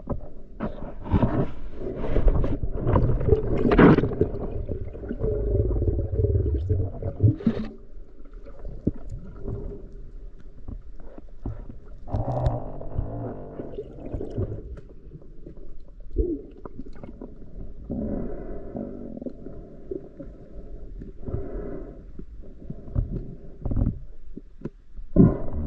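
Muffled underwater rumbling and gurgling of water and bubbles, with irregular knocks, as picked up by a diving camera's microphone.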